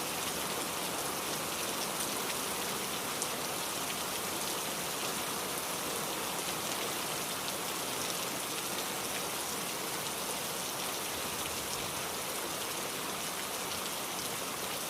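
Heavy rain falling steadily: an even hiss, with a few sharper drop ticks scattered through it.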